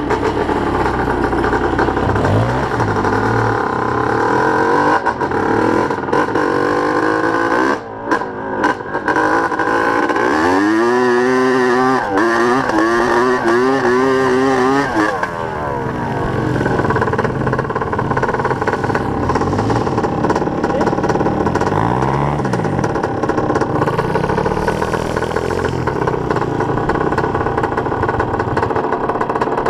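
Small dirt bike engines running and revving up and down, the pitch rising and falling through the throttle, with a hard, fast-warbling rev run about ten seconds in.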